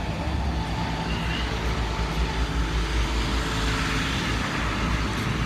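Steady low rumble of a running motor vehicle, with a constant hum and road noise.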